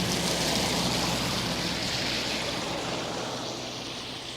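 Steady rushing noise with a faint low hum underneath, slowly fading toward the end.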